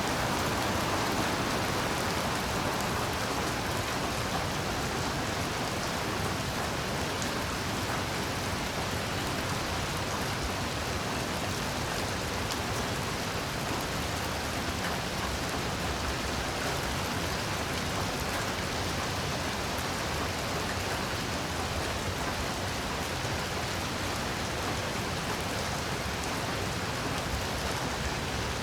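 Heavy rain falling in a steady, even hiss, with no thunder or single drops standing out.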